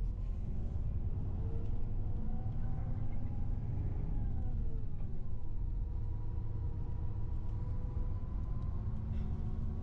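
Tour bus engine and road rumble heard from inside the cabin; the engine note slides lower about halfway through.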